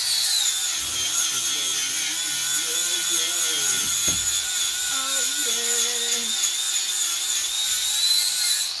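Angle grinder with a sanding disc running steadily against steel with a high whine, its pitch wavering as it is pressed onto the metal, rising briefly and then cutting off near the end. It is sanding the metal bright ready for welding.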